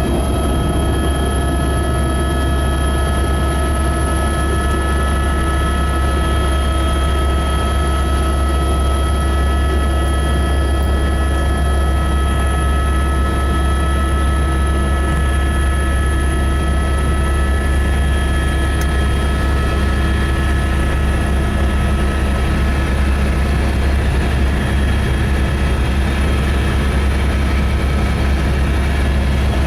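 Helicopter running steadily: a loud, even low drone from the rotor and engine with a thin, high, steady whine from the turbine over it.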